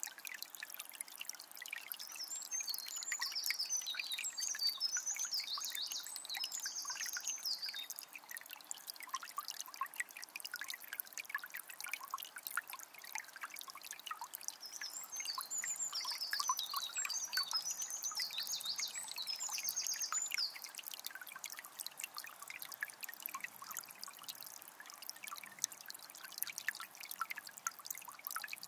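A calm forest river trickling and splashing steadily. A songbird sings twice, each time a few seconds of quick, high, rapidly repeated phrases, the first a couple of seconds in and the second around the middle.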